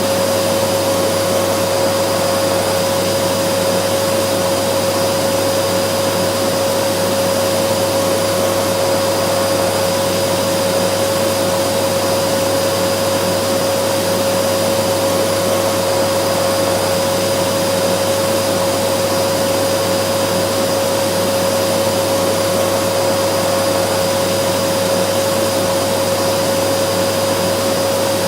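Vacuum cleaner running steadily: an even rushing noise with a constant motor whine that never changes in pitch or loudness.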